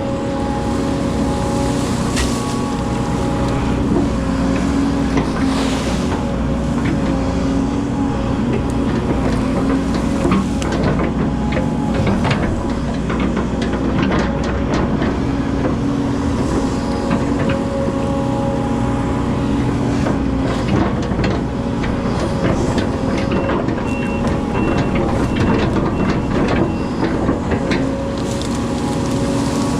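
Hydraulic excavator's diesel engine running steadily under working load, with frequent knocks and clanks. A run of short, high-pitched beeps sounds about three-quarters of the way through.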